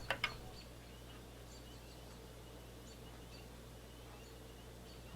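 Quiet background with a low steady hum, and faint high bird chirps that come and go through the room.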